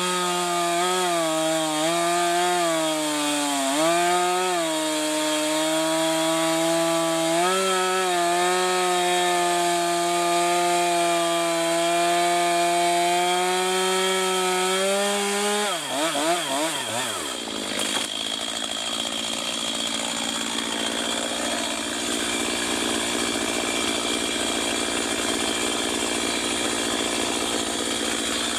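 Chainsaw running at full throttle while cutting through a large fallen log, its pitch dipping a few times as the chain loads up in the cut. About 16 seconds in the throttle is let off and the pitch falls away, leaving a lower, steady running sound.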